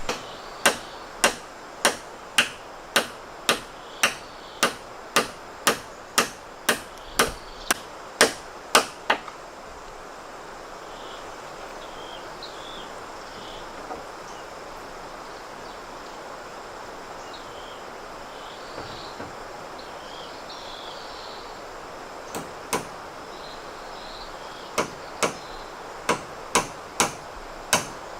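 A steady run of sharp strikes, about two a second, stops after about nine seconds and starts again near the end. Faint high chirps sound in the pause between.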